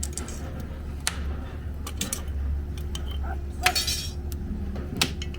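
A few sharp metallic strikes at irregular intervals as the steel head of a tobi logging hook is hammered in re-forging, the loudest about two-thirds of the way through. A steady low hum runs underneath.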